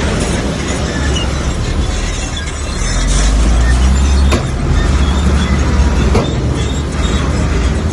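Crawler bulldozer at work: its diesel engine running with a steady low rumble, with metal squeals and a couple of sharp clanks from its steel tracks.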